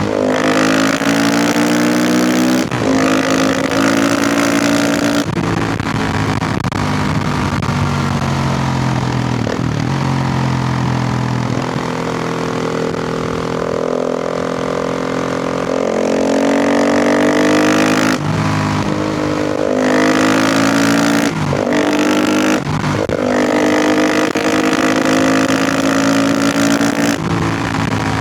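KTM 450 EXC single-cylinder four-stroke engine under hard riding: revs climb and fall repeatedly, with brief breaks in the engine note at each shift or throttle chop, about seven times.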